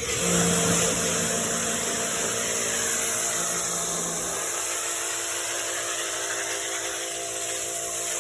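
Motor-driven cleaning machine, most likely an electric pressure washer, running with a steady hiss and several steady hum tones; one lower hum drops away about halfway through.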